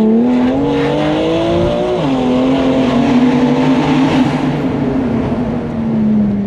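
Tuned BMW M2 Competition's twin-turbo S55 straight-six pulling hard under acceleration, heard from inside the cabin. Its note climbs, drops sharply about two seconds in at an upshift, then holds and slowly eases down.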